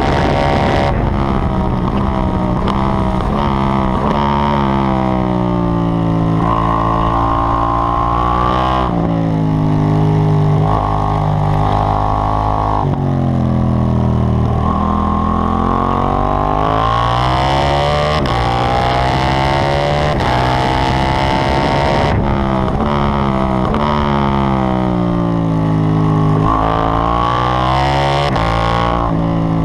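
KTM 790 Duke's 799 cc parallel-twin engine at full track pace, revving up through the gears in stepped climbs and dropping back in pitch on braking and downshifts, again and again. Wind noise rushes over the microphone at the highest speeds, in the middle and near the end.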